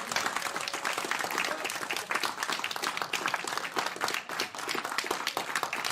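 A roomful of people clapping continuously, many hands at once in a dense, even applause.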